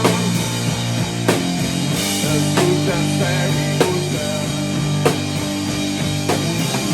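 Live rock band playing: drum kit and electric guitar, with a sharp drum hit about every 1.3 seconds over a steady, dense wall of guitar.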